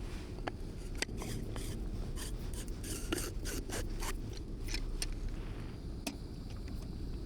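Irregular clicks and scrapes of camp coffee gear being handled, a dozen or so short sounds, bunched together about three seconds in.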